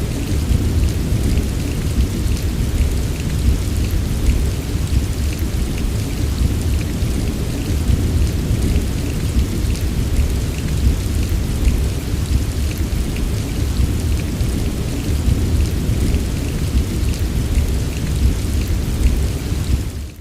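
Steady heavy rain, an even hiss with scattered drop ticks over a deep continuous low rumble, fading out quickly at the very end.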